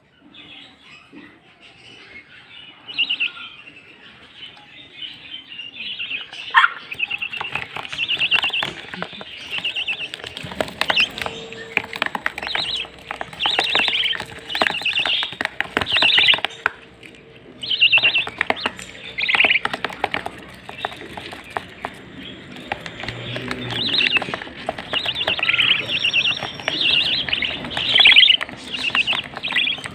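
Several caged pet birds chirping and twittering in quick repeated bursts, with many small clicks among the calls.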